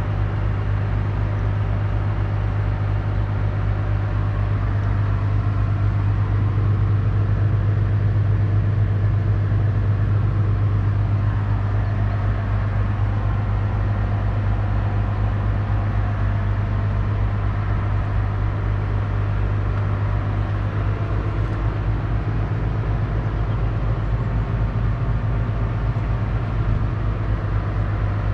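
Claas Ares 656 RZ tractor's 6.8-litre six-cylinder diesel engine running at a steady speed, swelling slightly louder for a few seconds about a quarter of the way in.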